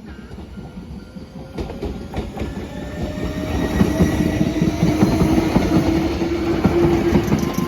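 Iyo Railway 700 series electric train pulling out of a station. Its motor whine rises in pitch as it gathers speed, and its wheels clack rapidly over the rail joints, growing louder as it comes by.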